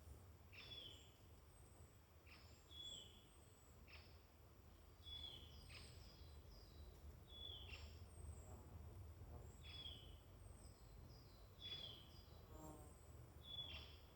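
Faint woodland birdsong: a songbird repeats a short phrase about every two seconds, a quick falling note ending in a brief higher note. Thin high calls from other birds sound in the background, over a low rumble of wind.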